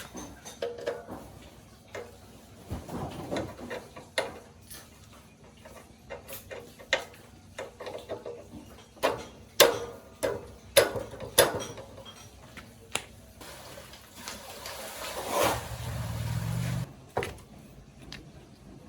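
Irregular sharp clicks and knocks, a dozen or more, the loudest between about 9 and 12 seconds in. Near the end a low hum runs for about a second and a half and cuts off suddenly.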